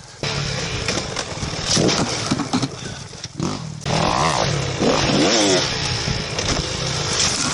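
Two-stroke dirt bike engine running and revving, its pitch rising and falling several times around the middle. It starts abruptly about a quarter second in.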